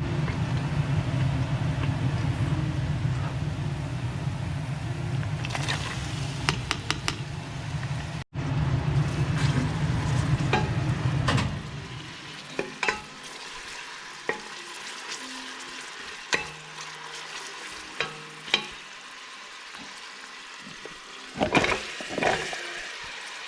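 Cooking in a pan: a steady sizzle with stirring for about the first half, then quieter with scattered clinks of utensils against the pan.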